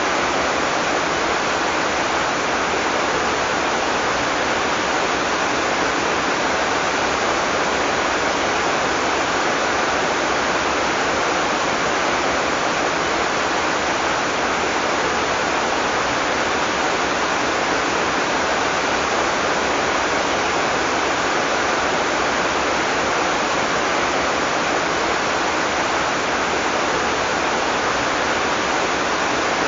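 Heavy tropical rain falling steadily, a dense even hiss without thunder.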